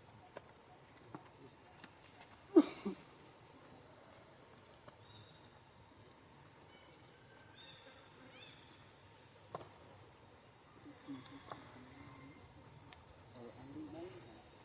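Steady high-pitched trill of crickets, with one sharp knock about two and a half seconds in.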